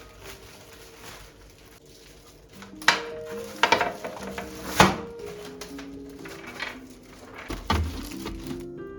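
Kitchenware clattering: a few sharp knocks and clinks, the loudest about five seconds in, over soft piano background music.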